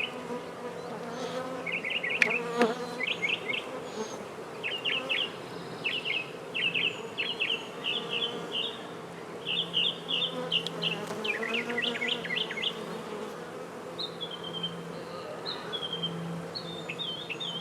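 Honey bees buzzing steadily around an opened hive during a frame inspection, while a bird chirps in short, quick repeated phrases over the top.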